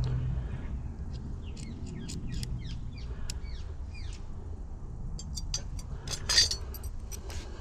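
Small birds chirping, a quick run of short calls, then a few sharp clicks and a louder clack about six seconds in from small metal parts and tools being handled.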